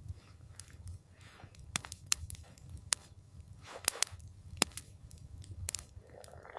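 Campfire crackling, with sharp wood pops at irregular moments over a steady low rumble.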